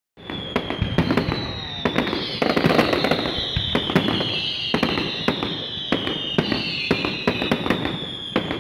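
Fireworks display: a rapid, irregular string of bangs from bursting shells, over several overlapping high whistling tones that each slowly fall in pitch.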